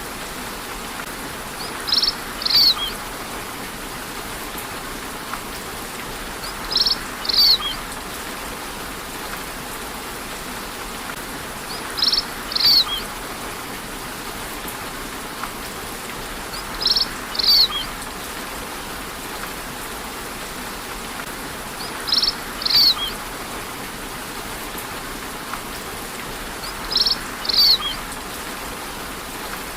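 Steady rain hiss, with a bird's short high double chirp repeating six times at even intervals of about five seconds; the chirps stand out above the rain.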